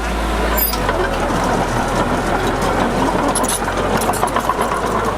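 Heavy construction machine's diesel engine running steadily, with clattering and rattling over it; the low engine note shifts about a second in.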